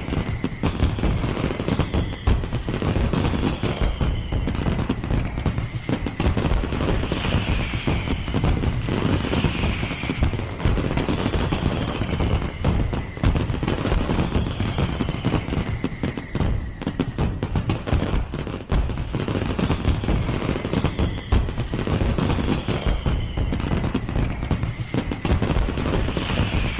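A firework display with a dense, continuous barrage of cracks and bangs. A falling whistle-like tone recurs every couple of seconds above them.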